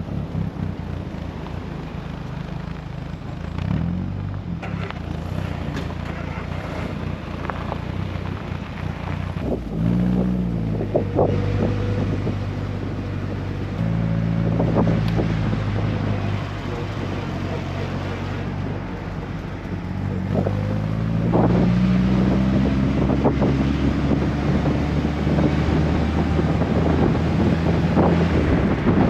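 Car engine running while driving, its pitch stepping and rising through gear changes and acceleration, with wind noise on the microphone growing louder toward the end.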